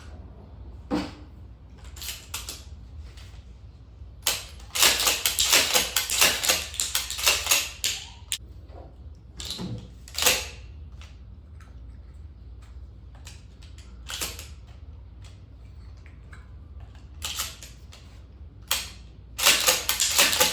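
Shotgun being handled and loaded: sharp metallic clicks and clatter. Two long flurries of rapid clicking come a few seconds in and near the end, with scattered single clicks between.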